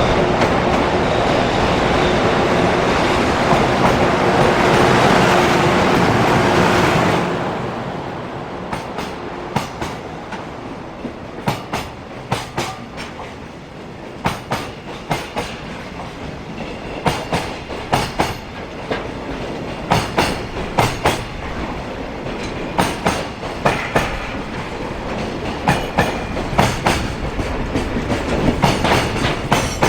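Container freight train passing at speed. For about the first seven seconds the locomotive goes by with a loud, steady rush and a held hum; then the level drops and the container wagons' wheels click over the rail joints in quick, repeating groups.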